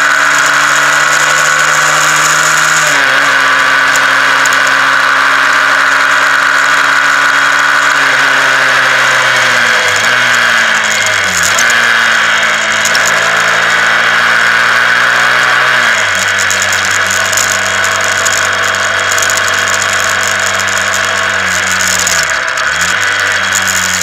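Honda CBR125R's single-cylinder four-stroke engine running at steady road speed, its pitch dipping briefly several times as gears are changed and stepping down to a lower note about two-thirds of the way through, over a steady rush of wind noise.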